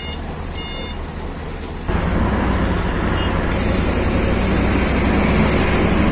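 A vehicle's reversing alarm beeps in the first second. About two seconds in, a heavy vehicle's engine comes in suddenly and runs loudly and steadily.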